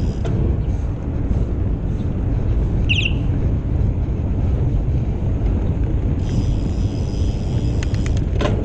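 Wind rumbling steadily on the microphone of a bicycle rider's camera while riding along a road. A short high chirp comes about three seconds in.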